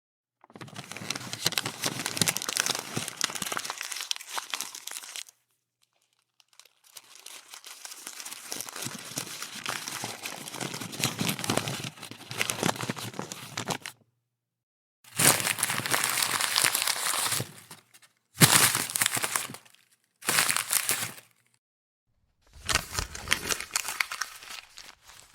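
Sheet of paper being crumpled into a ball by hand, in six separate bouts of crackling and crinkling with short silent gaps between them; the two longest bouts come first, the later ones are shorter and louder.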